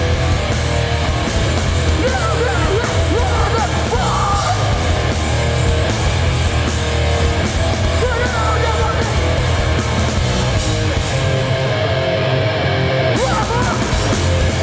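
Hardcore punk band playing live at full volume: distorted guitars, bass and drums, with shouted vocals breaking through now and then.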